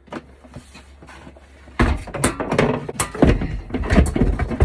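A run of knocks and clunks as the emptied small water heater is handled, starting about two seconds in after a quieter stretch.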